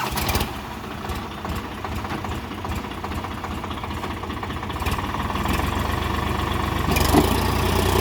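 Solis 5015 tractor's diesel engine running, growing gradually louder, with a deeper, steadier hum near the end.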